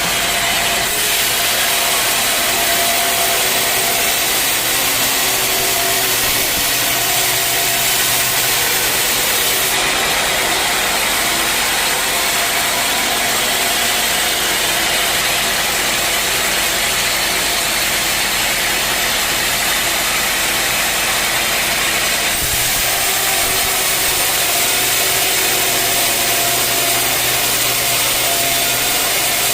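Sawmill blade cutting through a dense acacia log, with the mill's motor running under it: a loud, steady hiss of sawing. The sound changes character about ten seconds in and again about 22 seconds in.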